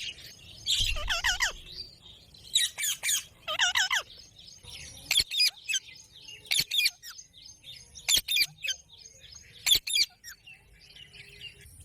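Indian ringneck parrot chirping in quick warbling runs, then giving short, sharp calls every second or two.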